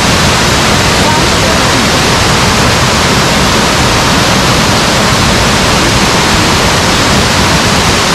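Waterfall close by: loud, steady roar of falling water.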